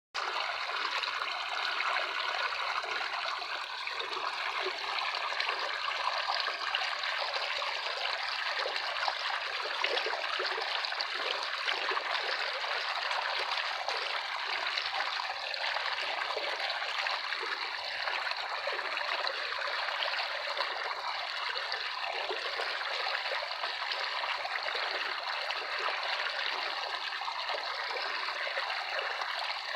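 A small stream trickling and babbling, a steady, even rush of flowing water with fine splashy detail.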